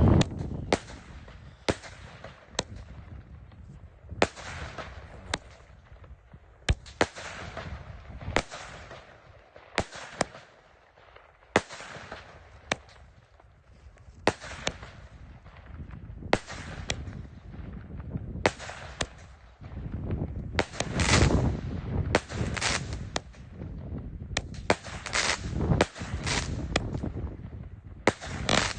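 Fireworks going off: a long run of sharp bangs at uneven intervals, many followed by crackling trails, coming thicker and faster over the last several seconds.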